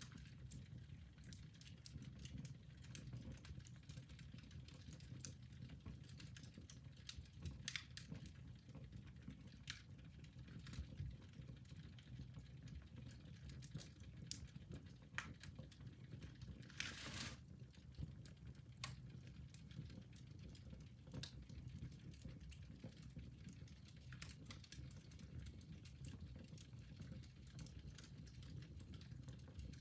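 Fire crackling in a fireplace: irregular small sharp pops, with one louder, longer pop about seventeen seconds in, over a low steady rumble.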